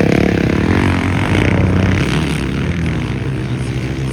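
Motocross bikes' engines revving hard as they race past, the pitch sweeping down over the first couple of seconds as they go by.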